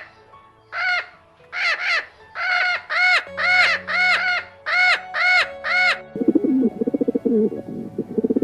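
An animal calling over and over in short, arched, clear-pitched calls, about ten in six seconds, then switching to a rapid, lower, fluttering call near the end, over background music.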